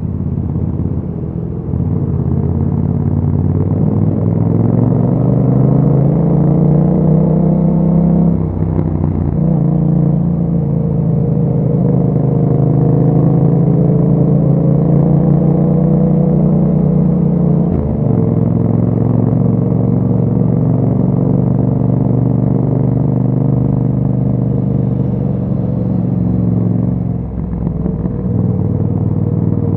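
Yamaha MT-07's parallel-twin engine with an Akrapovic exhaust under way. The revs climb over the first several seconds, break briefly at a gear change about eight seconds in, then hold steady. The note drops about eighteen seconds in and dips again near the end.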